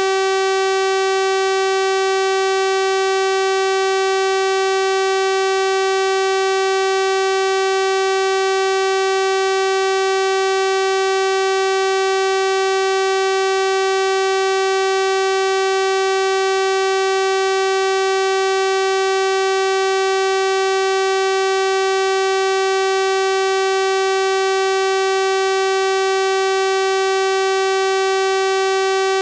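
Synthesized 384 Hz sawtooth-wave tone, held at one steady pitch and level, with a bright, buzzy string of overtones.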